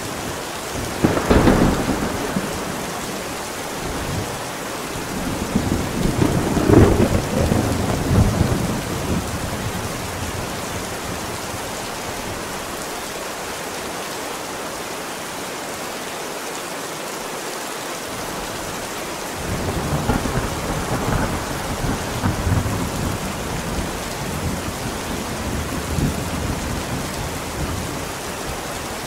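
Steady rain with rolling thunder: a rumble starts about a second in, a longer and louder rumble runs from about six to nine seconds, and after a lull with only the rain, thunder rumbles again from about twenty seconds on. The storm is mixed as 8D audio, panned around the listener.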